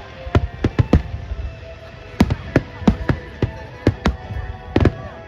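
Aerial fireworks bursting in a rapid barrage: about a dozen sharp bangs, some close together in pairs, over a steady background of music and voices.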